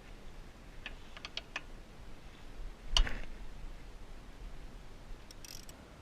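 Bolts and small metal parts being handled while a skid plate is fitted: a quick run of light clicks about a second in, a single louder knock about three seconds in, and a few faint clicks near the end.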